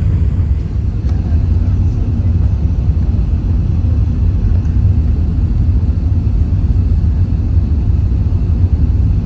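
Steady low rumble of cabin noise inside an Airbus A380-861 airliner: engine and airflow noise, even and unchanging.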